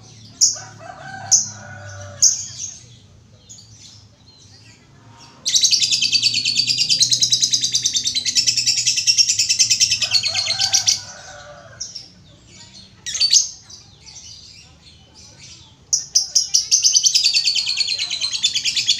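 Female lovebird chattering: scattered short chirps, then two long runs of very rapid, high-pitched trilling, each about five seconds, the second starting about three-quarters of the way through, with a lower call in between.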